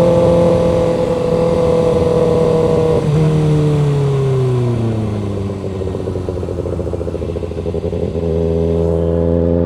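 Motorcycle engine heard from the rider's seat, running steadily at first. About three seconds in the revs drop and keep falling as the bike slows. A little after eight seconds the revs jump back up and hold steady.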